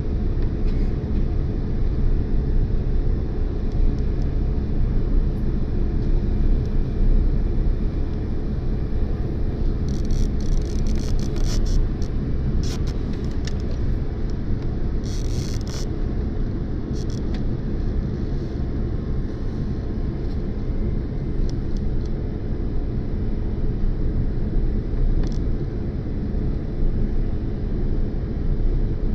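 Steady low rumble of a jet airliner heard from inside the passenger cabin: engine and airflow noise, with a few brief clicks or rattles about ten to sixteen seconds in.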